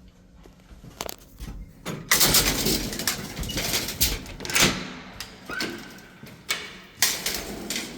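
Irregular knocks, bangs and scraping noises, the loudest stretch about two seconds in.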